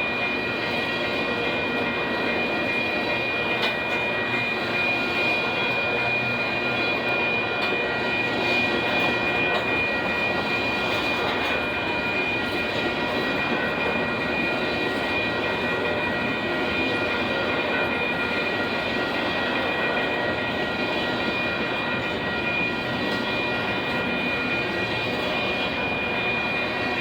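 Union Pacific grain train's freight cars rolling past: a steady rumble of steel wheels on rail with a continuous high-pitched ringing tone over it.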